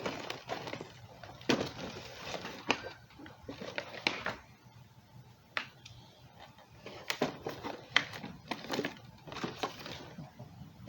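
A small consumer firework shell kit being opened by hand: scattered crackles, taps and rustles of packaging being pulled apart and handled.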